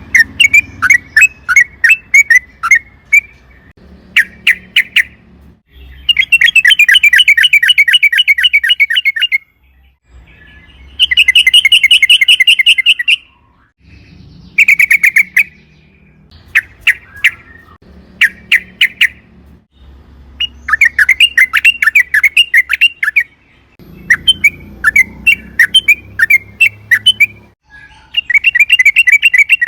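Yellow-vented bulbul (trucukan) song: loud, quick, bubbly notes broken up by long, very fast rolling trills lasting a few seconds each.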